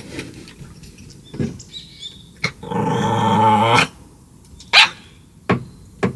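A dog giving one drawn-out, bark-like vocal call lasting about a second and a half, with a few sharp clicks or knocks around it, the loudest one near the end.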